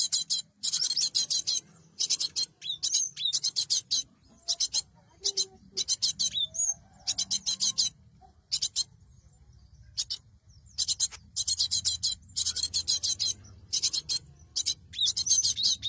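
Cinereous tit (gelatik batu) calling: bursts of rapid, high chattering notes, each up to about a second and a half long, repeated with short gaps.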